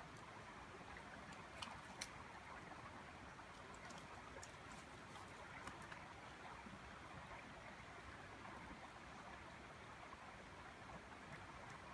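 Faint, steady rush of river water, with two sharp clicks about two seconds in.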